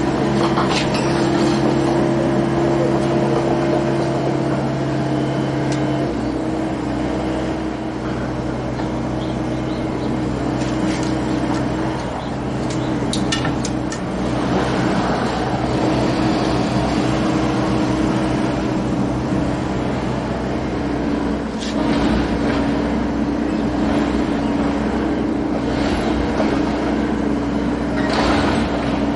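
Ford Model T engine running steadily while the car is driven. Its note changes about six seconds in, and light rattles and clicks come through over it.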